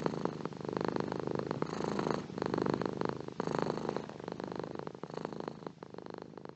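Domestic cat purring close up, a steady rumbling purr that swells and dips with each breath, growing fainter toward the end.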